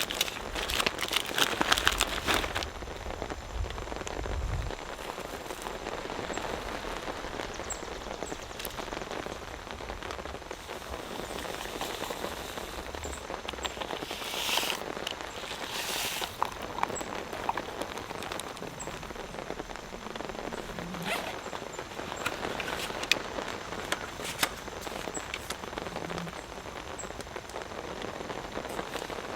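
Steady rain falling, with scattered drops ticking on nearby surfaces. A denser patch of crackly clicking comes in the first couple of seconds, and two short swells of louder hiss come about halfway through.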